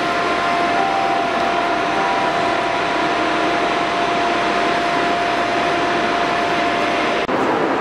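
Deutsche Bahn Intercity train at the platform: a steady mechanical hiss with a high, steady whine running through it. The sound changes abruptly near the end.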